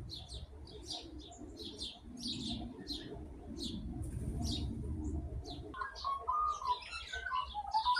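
Wild birds chirping: short, high-pitched chirps repeat a few times a second. From about six seconds in, a lower, busier chattering call joins them.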